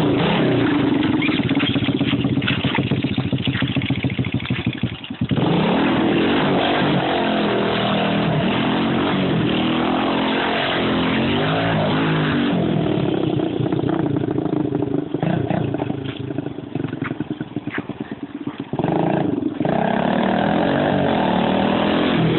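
Four-stroke minibike engine, a 50cc bored out to 88cc with a hot cam, running and revving up and down in pitch. It drops off briefly about five seconds in, and again for a few seconds in the last third before picking back up.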